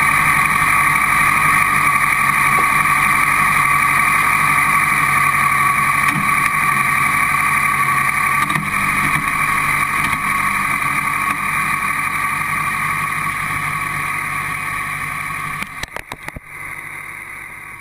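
Car-cross buggy's engine idling steadily, heard through the onboard camera mounted in the car, with no revving; the sound breaks up briefly and fades out near the end.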